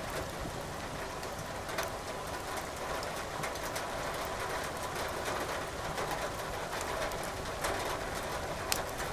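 Burning firewood crackling in a fireplace, with sharp scattered pops, a couple of louder ones near 2 s in and near the end, over a steady hiss of rain.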